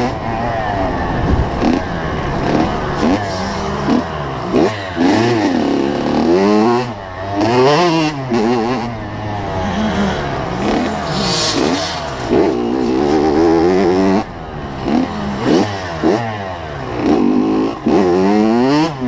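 85 cc two-stroke motocross bike engine revving hard as it is ridden, its pitch climbing and dropping back over and over as the throttle opens and closes.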